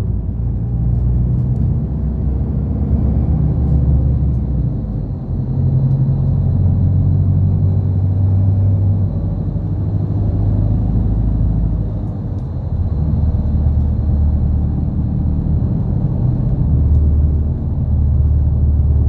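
Route bus heard from inside the cabin while driving: a low engine drone and road rumble, the engine note shifting in pitch several times.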